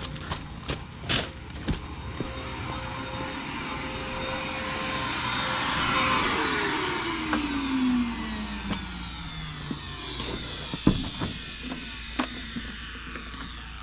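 Vacuum sucking sediment out of a drain line, running with a steady whine, then switched off about six seconds in and winding down as its whine falls in pitch. Scattered clicks and knocks.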